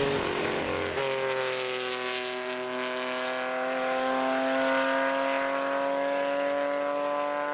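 Air-cooled flat-six engine of an early Porsche 911 racing at full throttle: a gear change about a second in, then the engine note rising steadily as it pulls through the next gear.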